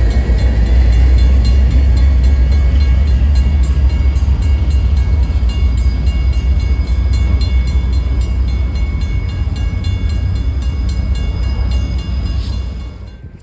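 Freight train of autorack cars rolling past close by, a heavy low rumble with wheel noise, while a railroad grade-crossing bell rings at a steady rapid rhythm. The sound drops away abruptly near the end.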